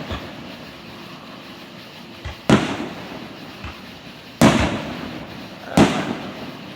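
Aerial firework shells bursting: three loud booms about two seconds apart, each trailing off in an echo, with a few fainter pops between them.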